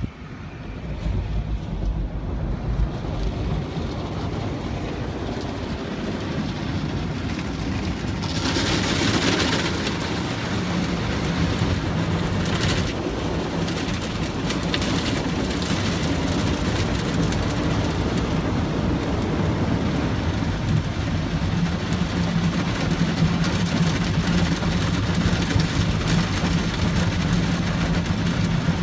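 Automatic car wash heard from inside the car: a steady low machine hum, joined about eight seconds in by a loud rushing hiss that surges a couple of times.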